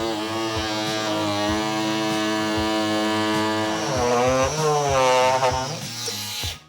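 Oscillating multi-tool cutting through the wall of a BMW SCR (AdBlue) reservoir, its motor whining steadily. The pitch dips and recovers about four seconds in as the blade loads up, and the tool stops near the end.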